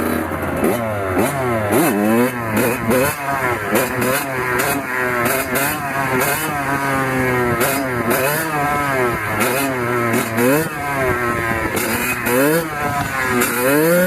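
Kawasaki KX100 two-stroke single-cylinder dirt bike engine revving hard and easing off over and over while riding, its pitch climbing and dropping every second or two as the throttle is worked.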